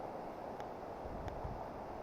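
Steady wind rush on the microphone over a low, uneven rumble, with a few faint ticks.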